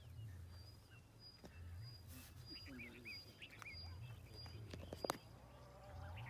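Faint outdoor birdsong: a high note repeated every fraction of a second and a few short chirps in the middle, over a low uneven rumble, with one sharp click about five seconds in.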